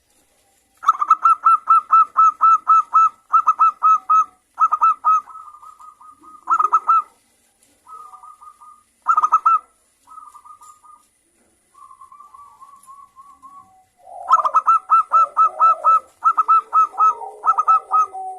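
Zebra doves (perkutut) singing: bouts of rapid staccato cooing notes, several a second, one bout after another. Between about 8 and 13 seconds the phrases are softer, then a loud bout returns near the end with lower, rougher notes overlapping it.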